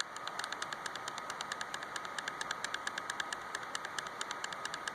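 A rapid, even run of small clicks at a computer, about eight a second, over steady microphone hiss with a faint high hum.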